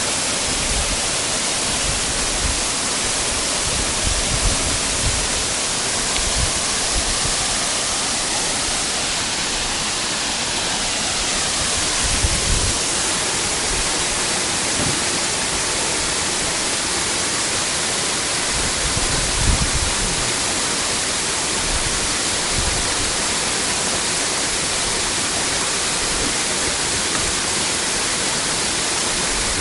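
Waterfall rushing with a steady, unbroken roar, with a few brief low thumps about four, twelve and nineteen seconds in.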